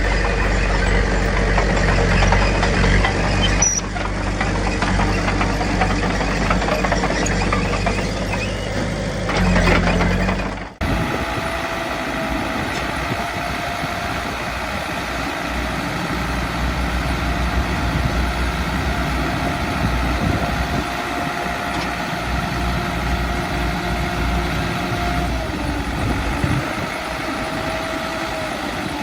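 Heavy diesel engines of earth-moving machines, a Komatsu D21P bulldozer and dump trucks, running. The engine note swells about ten seconds in, then the sound cuts off abruptly to another engine with a steady whine over it.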